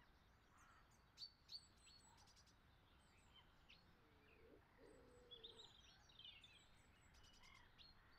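Near silence with faint birds chirping: scattered short high chirps, two slightly louder ones just over a second in, and a brief run of warbling chirps around the middle.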